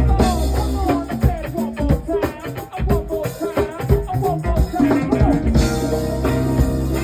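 A live band playing: drum kit and a steady bass under a busy melodic line, which breaks into quick runs of notes for a few seconds in the middle.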